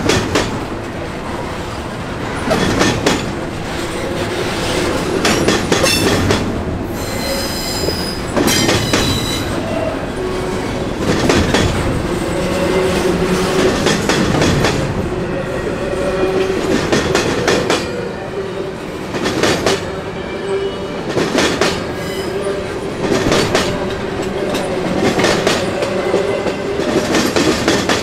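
Train cars rolling past at a rail junction, their wheels clacking over rail joints and switches again and again. A high wheel squeal comes a few seconds in, and a steadier lower squeal runs through the rest.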